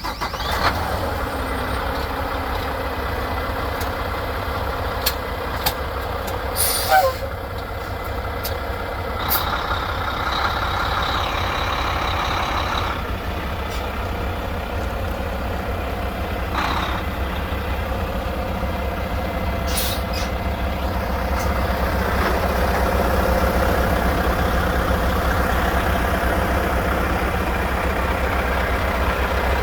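Diesel engine of a 2016 Mack Pinnacle day cab truck idling, with short hisses of air from the air brake system and a few clicks. A steady high tone sounds for about three seconds, and the engine runs a little louder in the last third.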